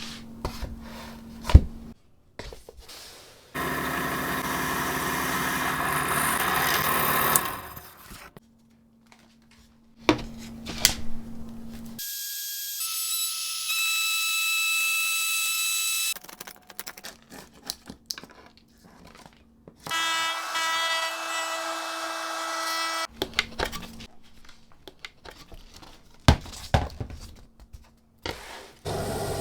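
A power tool running in short bursts while parts are worked, each run a steady mechanical whine, with clicks and knocks of handling between the runs.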